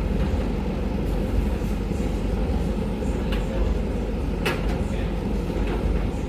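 Hoover Visiontech VTC5911NB tumble dryer running with a steady low rumble as its drum turns. A few short clicks sound over it about halfway through and near the end.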